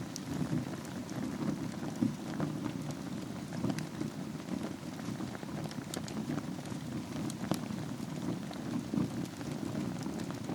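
Wood fire burning in a fireplace over a bed of embers: a steady low rush of flame with scattered sharp crackles and pops.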